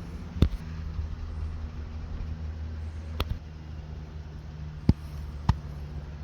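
A vehicle engine idling with a steady low hum, with four sharp knocks scattered through, the loudest about half a second in and twice near the end.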